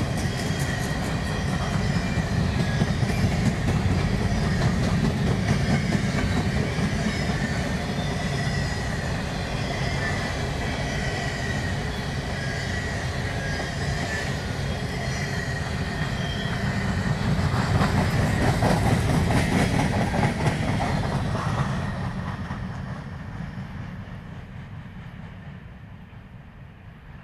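Empty covered hopper cars of a freight grain train rolling past: a steady low rumble with clickety-clack over the rail joints and a thin high wheel squeal. After about twenty seconds the last car goes by and the sound fades away.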